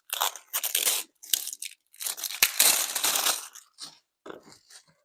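Plastic packaging being handled and pulled open, crinkling and tearing in irregular bursts, the loudest stretch around the middle; the wrapping of a new motorcycle battery being unpacked.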